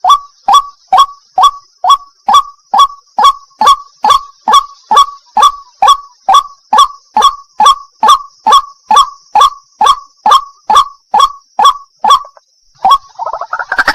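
White-breasted waterhen calls ('wak wak'): sharp, short notes falling in pitch, repeated steadily about two to three times a second, over a faint steady hiss. The run stops near the end and a different, denser bird call begins.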